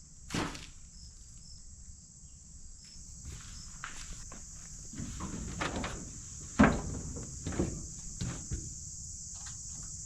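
Crickets chirring steadily, with footsteps and scattered knocks; a sharp knock comes just after the start and the loudest one about six and a half seconds in.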